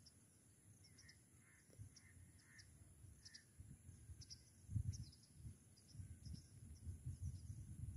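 Near silence, with faint distant bird calls: a few soft calls in the first half and short high chirps throughout. Low wind rumble on the microphone rises about five seconds in.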